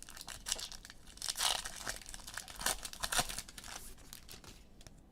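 Crinkling and tearing of trading-card pack wrappers being handled and ripped open, a quick run of rustles that dies away about four and a half seconds in.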